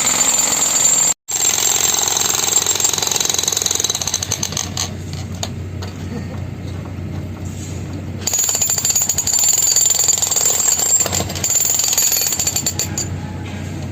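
Breaker hammer chipping away the concrete head of a bored pile, hammering rapidly and continuously. It cuts out briefly about a second in, runs quieter through the middle, then louder again.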